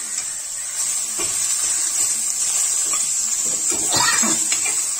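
Sliced okra sizzling in hot oil in a steel pot, a steady hiss, with a steel ladle scraping through it a few times, most of all near the end.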